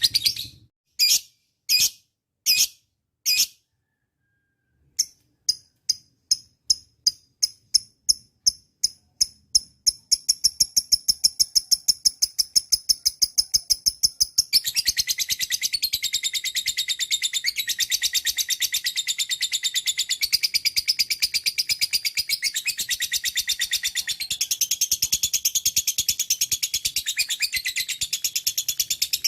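Lovebird chirping: a few separate sharp chirps, a short silence, then chirps that come faster and faster until they run together into a long, fast, unbroken chatter, which grows fuller about halfway through.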